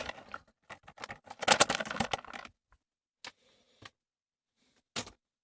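A utensil stirring chicken, curry sauce and rice in a pan: a quick run of scrapes and clicks against the pan for about two and a half seconds, then three single knocks.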